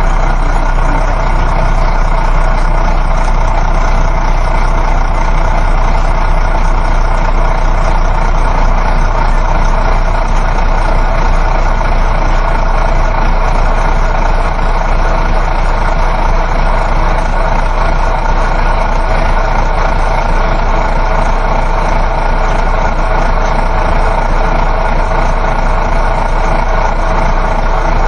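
Coach bus interior on the move: steady engine hum and road noise with a constant low rumble and a few faint steady tones, unchanging throughout.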